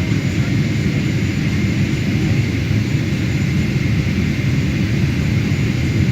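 Boeing 777-300ER jet airliner making a steady low rumble with a faint, even high whine above it.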